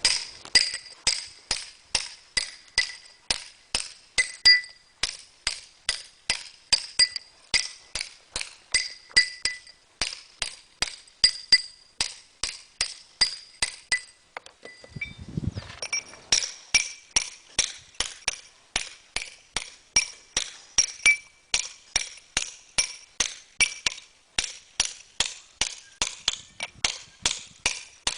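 Hammer striking a steel stone-carving chisel in a steady rhythm, about two to three blows a second, each with a short metallic ring. There is a brief break with a low thud about fifteen seconds in, then the blows resume with a slightly higher ring.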